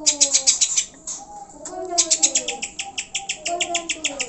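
Greater green leafbird (cucak hijau) song: two runs of rapid, sharp, high notes, about ten a second. Lower falling whistled notes sound beneath them.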